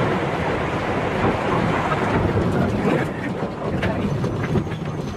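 Train running past with a loud rushing noise and scattered clicks, easing somewhat about three seconds in.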